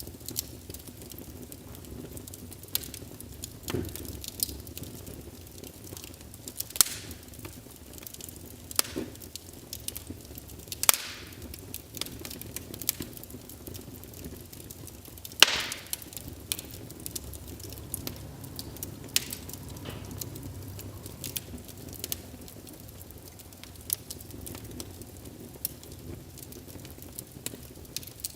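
Wood fire burning in a fireplace: a low steady rustle with irregular crackles and pops, the loudest about 7, 11 and 15.5 seconds in.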